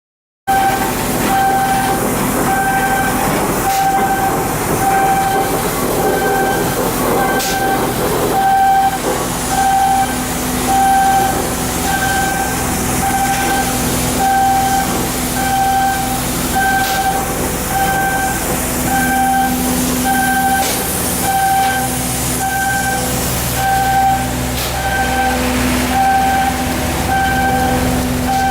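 An electronic warning beeper sounding a steady tone about once a second, over the constant hum of machinery and industrial clatter.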